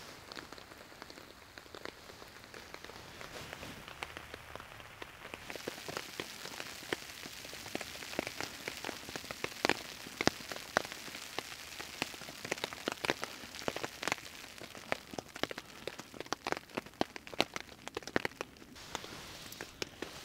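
Steady rain falling, with many separate drops striking close by as sharp ticks; the hiss of the rain thickens about five seconds in.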